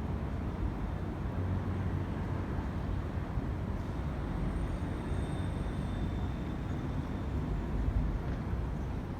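Steady city road-traffic noise, a constant low rumble, with a faint high thin whine for a second or two in the middle.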